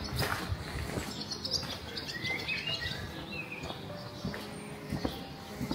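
Small birds chirping and giving short whistled calls, with a few brief clicks.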